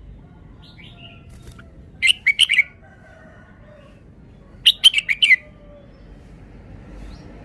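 Red-whiskered bulbul singing: two short, quick phrases of about five clear notes each, some two and a half seconds apart, with a few faint calls before the first.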